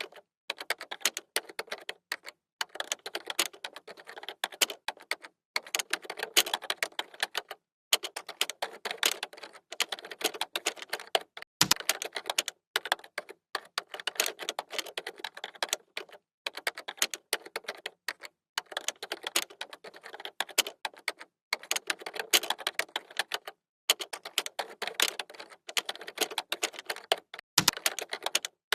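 Computer keyboard being typed on: rapid key clicks in runs of one to three seconds with short pauses between, and two heavier, deeper key strikes, one a little before halfway and one near the end.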